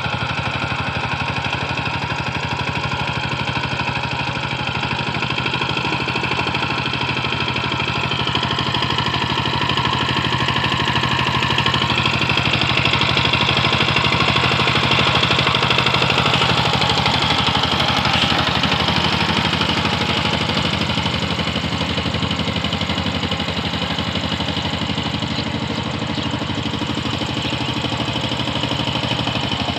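Walk-behind power tiller's diesel engine running steadily while tilling, a little louder for a few seconds around the middle.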